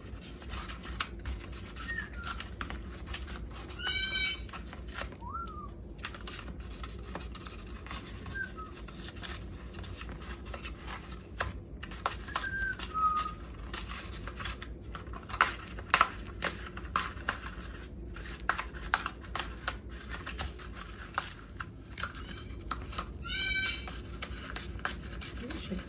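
Moluccan cockatoo's beak crunching and tearing dried rose leaves: a steady run of quick crackles and clicks. Short thin whistles are heard now and then, with a brief bird call about four seconds in and another near the end.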